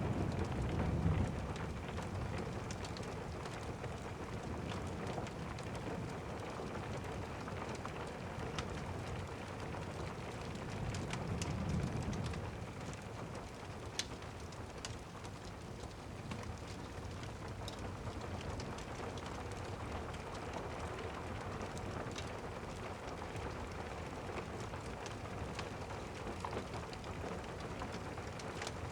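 Steady rain with scattered sharp ticks. A rumble of thunder dies away in the first second or two, and another low rumble of distant thunder swells and fades about eleven to twelve seconds in.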